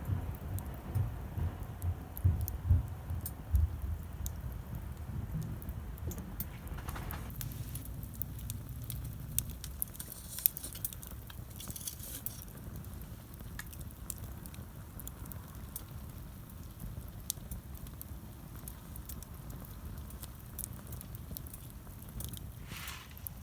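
Wood campfire burning a large log, crackling with many small scattered pops. A low rumble runs through the first ten seconds or so, and there are a few short hisses.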